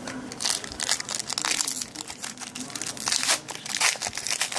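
Foil trading-card pack wrapper crinkling and crackling as it is handled and opened, with irregular crackles throughout.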